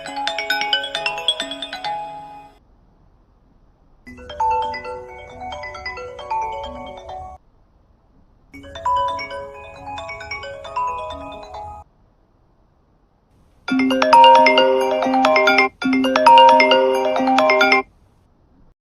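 Default iPhone ringtones played one after another as short clips: a melody that fades out early, the same three-second phrase twice after short pauses, then a louder, brighter two-second phrase repeated back to back.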